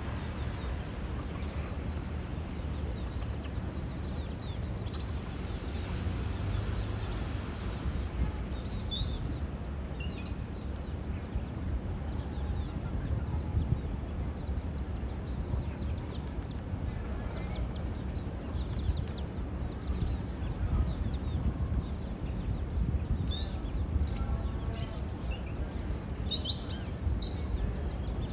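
Birds chirping in short, high notes, scattered and more frequent in the second half, over a steady low rumble.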